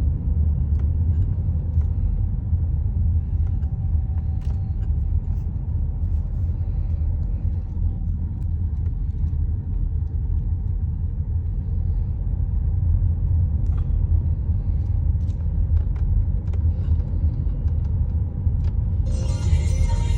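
Steady low rumble of a car rolling slowly, heard from inside the cabin.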